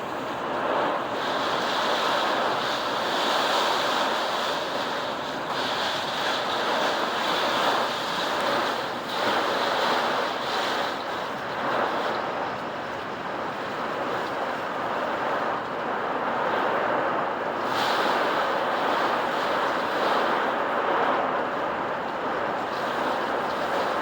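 Hurricane-force wind blowing hard, with the noise swelling and easing in gusts every few seconds.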